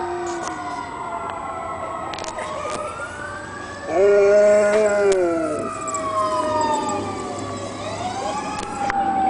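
Fire truck siren wailing, with several rising and falling sweeps overlapping. About four seconds in, a loud held tone with several pitches at once sounds for about a second and a half and sags at the end.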